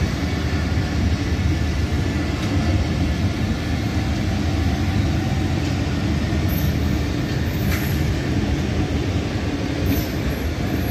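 Passenger train coaches rolling away on the track: a steady rumble of steel wheels on rails, with a few brief high squeaks in the second half.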